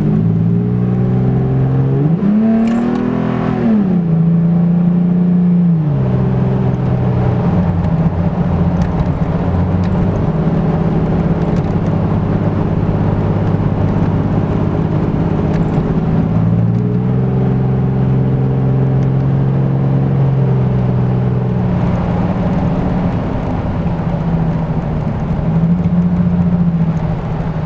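The engine and Borla stainless exhaust of a 2008 Toyota Tacoma running. It rises and falls in a quick rev about two seconds in, then holds steady engine speeds with several step changes in pitch.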